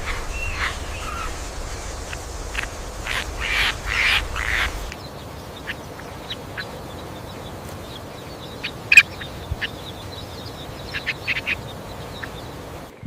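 Birds calling: a run of harsh, quack-like calls for about five seconds, then after a cut, short scattered chirps with one loud call about nine seconds in.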